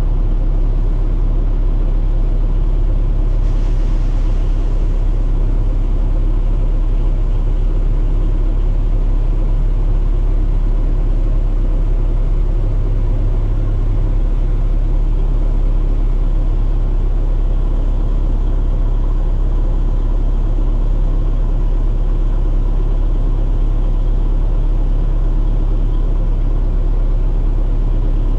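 Heavy farm machine's engine running steadily, a constant low rumble with no change in speed.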